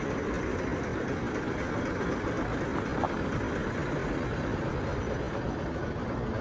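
Steady rumble of road traffic, even and unbroken, with no single vehicle standing out.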